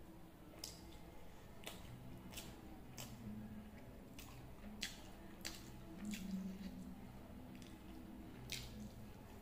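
Close-up wet chewing and mouth smacks of a person eating masala dosa, about ten sharp smacks at irregular intervals over the few seconds.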